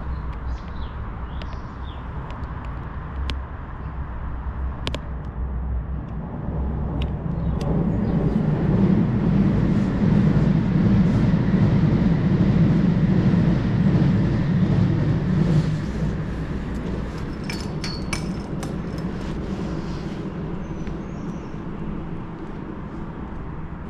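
Jubilee line 1996 Stock tube train passing on the tracks below: a deep rumble that builds, is loudest for about six seconds mid-way, then fades, with a few sharp clicks as it dies away.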